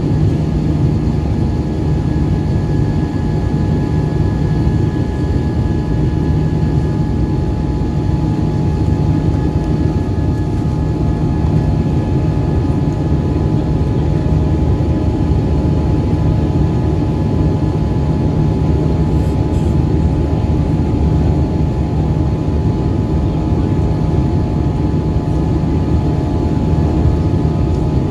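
Airbus A320 jet engines running steadily, heard inside the passenger cabin: a loud, even rumble with a steady hum over it.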